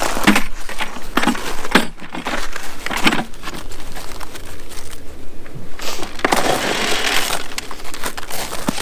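Footsteps crunching through frozen, icy snow: a series of irregular crunches, then a denser stretch of crunching and scuffing near the end.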